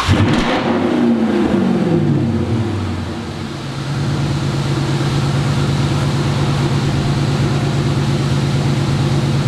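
Hemi V8 with a cat-back Flowmaster exhaust, blipped at the start, its pitch falling away over about three seconds, then running steadily at low revs.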